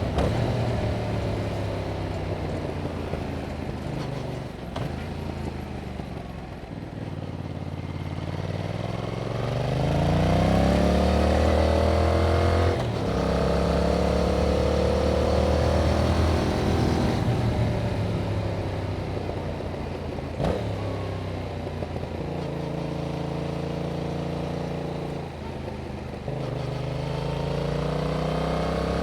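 A 2021 Yamaha MT-07's parallel-twin engine running through its original stock exhaust while riding. The pitch sinks as the rider eases off, then climbs again under throttle, broken by several quick gear changes.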